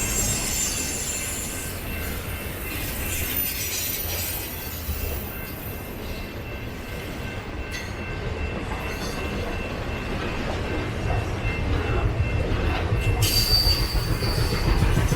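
BNSF intermodal freight train rolling past, with a steady rumble of wheels on rail and thin, high wheel squeals. The rumble grows louder over the last few seconds, and a higher squeal comes in near the end.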